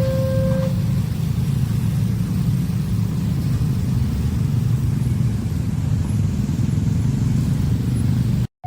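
Steady low rumble of a passing vehicle at a railway level crossing. Within the first second, the crossing's electronic warning alarm, two tones alternating about once a second, stops.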